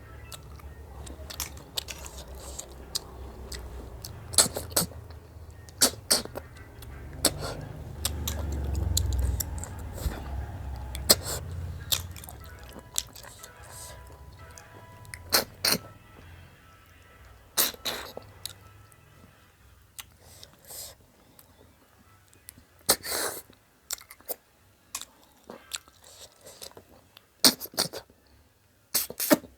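Close-up eating sounds of freshwater snails (ghonghi) being sucked out of their shells and chewed: sharp, irregular slurps and clicks a second or two apart. A low rumble swells under them through the first dozen seconds and then fades.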